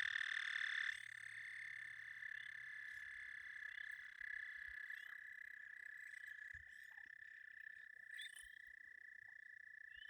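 Pond frogs calling in a night chorus: long steady trills overlapping, with one loud nearby trill in the first second that cuts off suddenly.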